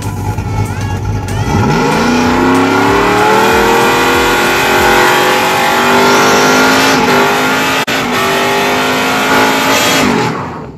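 Pickup truck engine revving up hard about a second and a half in, then held at high revs with a steady climb and small shifts in pitch, cutting off abruptly at the end.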